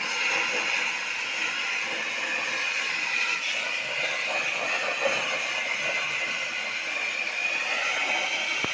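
CNC air plasma torch cutting: a steady, hissing arc with a pronounced high-middle band, and a short click near the end.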